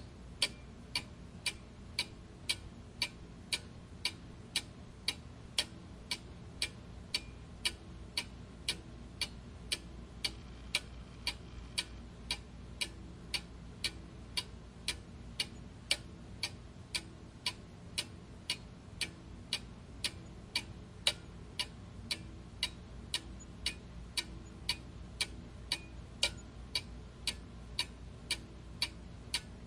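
Mechanical clock ticking steadily, about two ticks a second in an even tick-tock, over a faint low hum.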